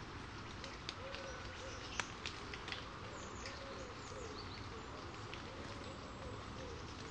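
A bird's low hooting notes, repeated about twice a second from about a second in. A few sharp clicks fall between one and three seconds in, the loudest about two seconds in.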